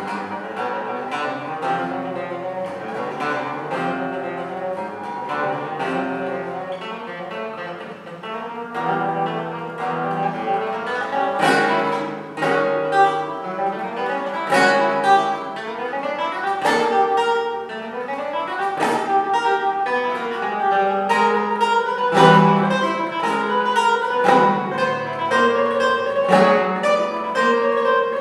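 Solo classical guitar playing a fast run of plucked notes and chords, softer at first and growing louder with sharp, bright accents about a third of the way in.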